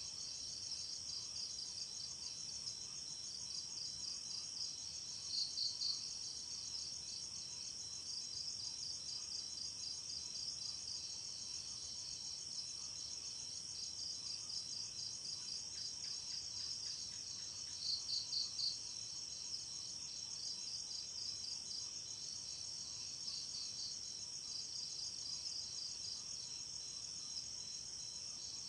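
Night insects, crickets among them, chirping in a continuous high-pitched chorus: a steady trill with repeating runs of pulsed chirps on top, and now and then a louder burst of chirps.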